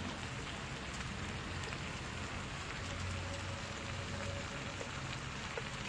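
Pork and cabbage sizzling steadily in a hot pan as they are stirred with chopsticks.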